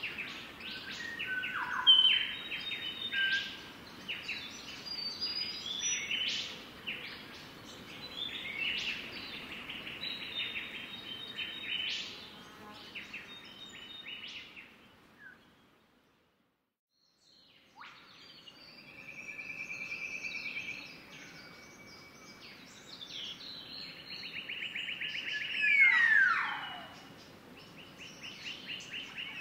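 Several birds calling and singing: dense chirps and rapid trilled phrases, with two falling whistled calls near the end. The sound drops out completely for about two seconds around the middle.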